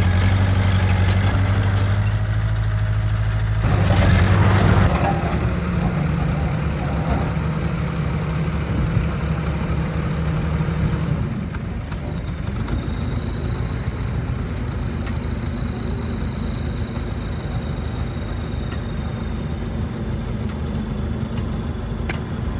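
Heavy diesel engine of earthmoving machinery running steadily. It grows briefly louder about four seconds in, then settles lower after about eleven seconds.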